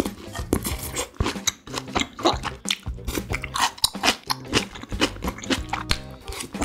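Close-miked chewing of saucy beef chop steak and vegetables: a dense, irregular run of wet mouth clicks and smacks.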